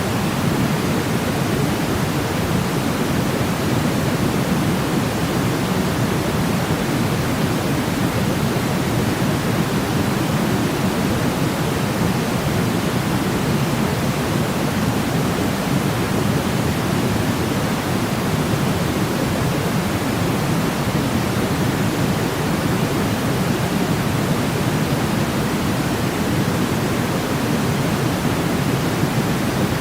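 Steady, unchanging white noise for infant sleep, a soft rushing hiss that is heavier in the low end than in the highs.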